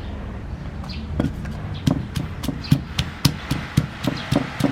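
Knife chopping on a wooden cutting board in a steady rhythm, about three to four strokes a second, starting about a second in.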